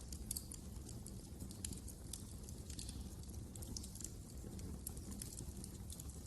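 Wood fire crackling in a fireplace: irregular, closely spaced sharp snaps and pops over a steady low rumble of the flames.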